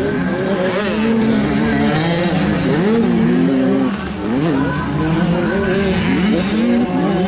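Several 85cc two-stroke motocross bikes revving together, their engine pitch rising and falling over and over as they accelerate and shift.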